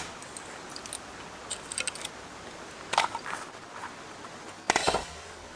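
Scattered sharp clicks and knocks over a faint steady background hiss, with a louder clatter near the end.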